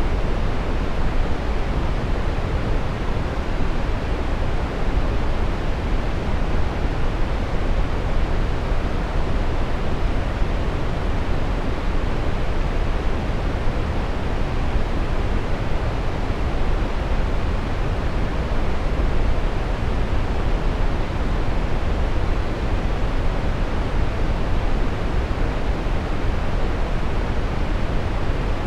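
Steady brown noise: an even rushing hiss weighted toward the low end, without change.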